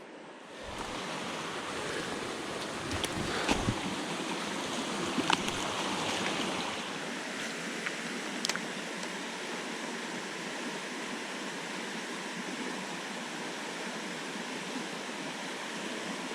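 Freshwater jungle creek running, a steady rushing hiss that comes in abruptly under a second in, with a few faint clicks over it.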